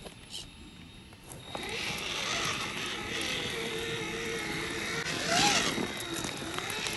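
A 1/10 scale RC crawler truck driving, its motor and gears whining at a steady pitch over a rough rolling and crunching noise. It starts about a second and a half in, and the pitch briefly rises and falls just past the five-second mark.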